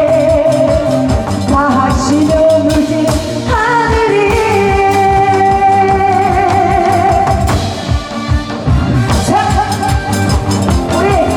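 A trot-style song sung over a backing track with a steady drum beat, the voice holding long notes with vibrato.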